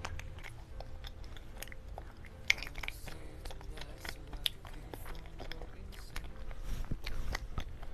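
Close-miked chewing and mouth sounds of someone eating mousse cake, with many scattered soft clicks and smacks.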